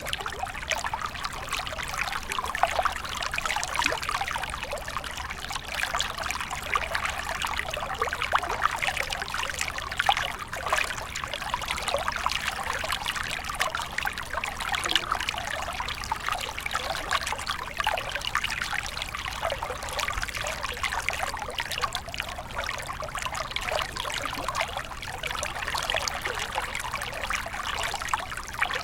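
A small stream flowing steadily over stones, a constant trickling and splashing with many fine droplet plinks.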